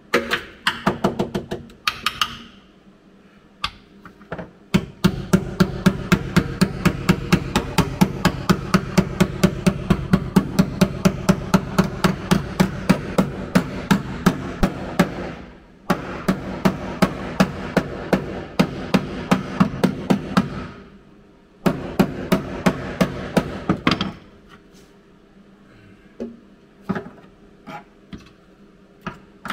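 Rapid hammer blows on the car's steel floor panel, about four a second, in several long runs with short pauses and a few lighter taps near the end; the metal rings under the strikes.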